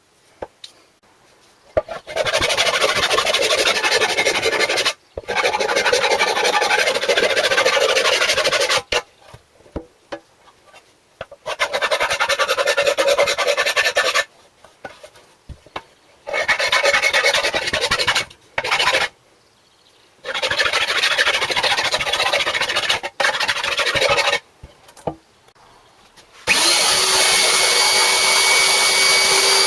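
Abrasive rubbing or sanding on a part in several long bursts with short pauses between them. Near the end a small power tool starts and runs steadily with a fixed whine.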